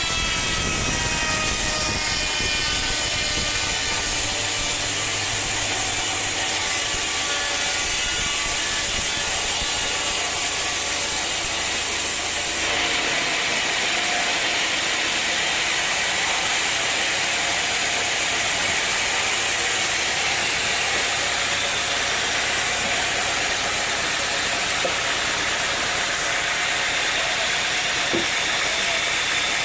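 Sawmill machinery running with a steady, loud mechanical noise. For the first twelve seconds or so a pitched tone slowly falls, then the sound changes abruptly about thirteen seconds in.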